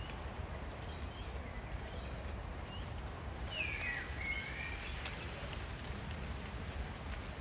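Outdoor ambience: a steady low rumble of background noise, with a few short bird calls sweeping in pitch about halfway through.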